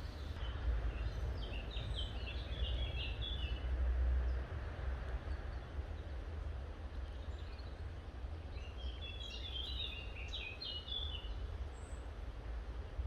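A songbird singing two phrases of quick chirping notes, one in the first few seconds and another about two-thirds of the way through, over a steady low rumble.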